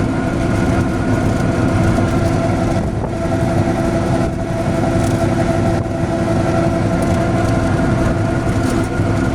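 An engine running steadily at an even speed, a constant hum with a steady pitch over a low rumble.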